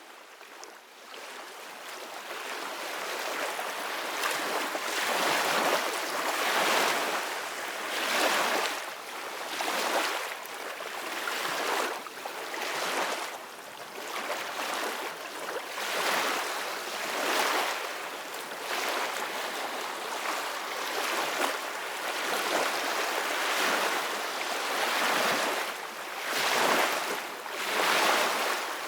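Ocean surf: waves breaking and washing up the beach in a steady hiss that swells and ebbs every couple of seconds. It fades in out of silence over the first few seconds.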